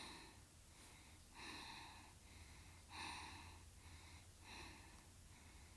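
Near silence with faint, soft breath sounds about every second and a half.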